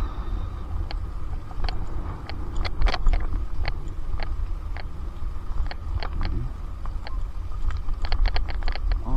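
Electric mountain bike climbing a hill at low speed, heard from a helmet camera: a steady low rumble of wind and riding noise, with scattered irregular clicks and crunches from the tyres and the bike's parts.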